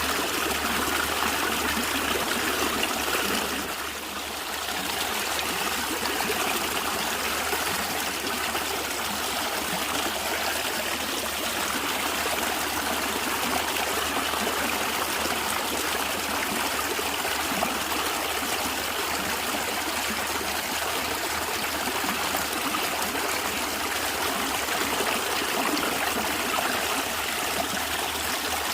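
A natural stream of running water, gurgling and trickling steadily, briefly a little softer about four seconds in.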